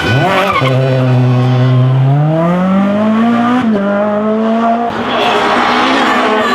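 Rally car engine at full load on a stage. The revs fall sharply at the start, hold low, then climb steadily, with a gear change just before 4 s. From about 5 s the engine note gives way to a louder rush of tyre noise.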